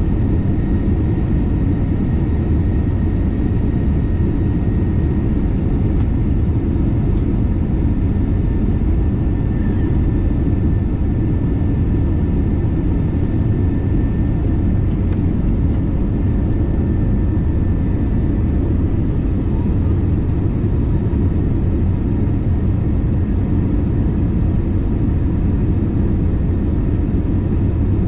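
Steady rumble of engine and airflow noise inside an airliner's cabin, with a faint thin whine over it through the first half.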